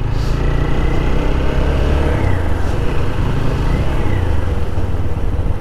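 Motorcycle engine running steadily while riding, with steady wind and road noise.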